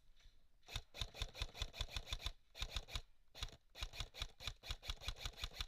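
An airsoft rifle firing in three rapid bursts of sharp shots, about seven a second.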